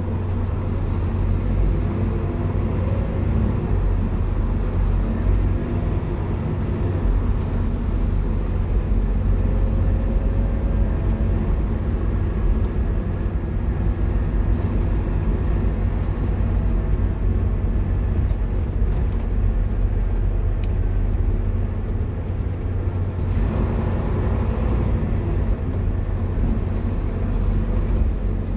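Scania K230UB single-deck bus under way: its engine runs steadily with road and body noise. About two-thirds of the way through there is a brief hiss.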